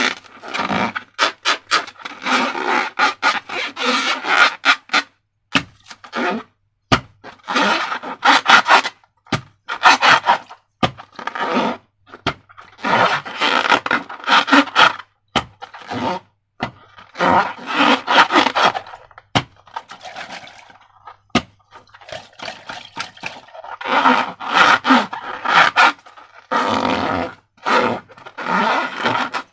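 Repeated rubbery scraping and squeaking from balloons and slime being handled, in uneven bursts of a second or two, with sharp clicks between them.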